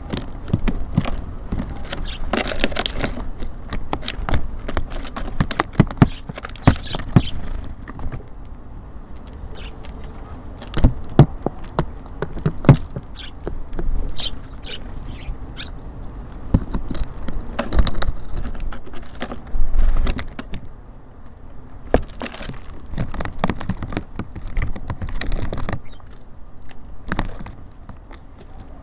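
Small birds feeding at a bird feeder: an irregular run of sharp taps and clicks from pecking at seed and hopping on the feeder, coming in bursts, with a few short high chirps in the middle.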